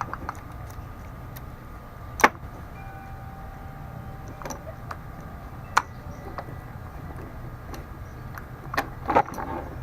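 Scattered metal clicks and clinks of tools and parts being handled as the bar and chain are taken off a chainsaw, over a steady low hum. There are sharp knocks about two seconds in and near six seconds, and a small cluster near the end.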